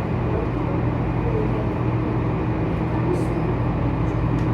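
Tour boat's engine running at a steady cruising speed: a constant low drone with a rushing noise over it.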